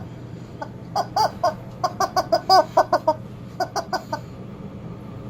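Rubber chicken toy being squeezed again and again: a rapid run of a dozen or so short, pitched squawks, from about a second in until about four seconds in.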